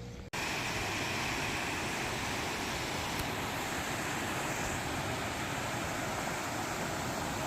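Mountain valley stream rushing over rocks: a dense, steady rush of water that cuts in abruptly just after the start.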